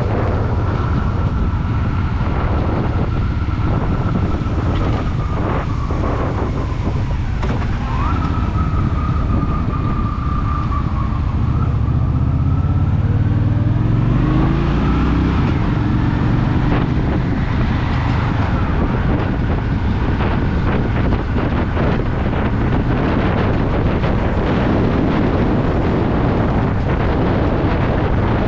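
Honda Shadow VT750's V-twin engine running under heavy wind noise on the microphone, rising in pitch once about halfway through as the bike accelerates.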